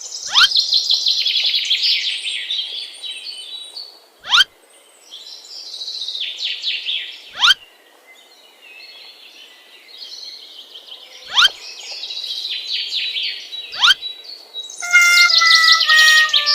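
Birds chirping and calling in busy high-pitched bursts, cut by five quick rising sweeps a few seconds apart. Near the end, a steady pitched musical tone with several notes comes in.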